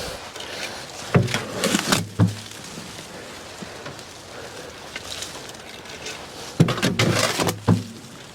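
Knocks and thuds in two short clusters, one about a second in and another near seven seconds in.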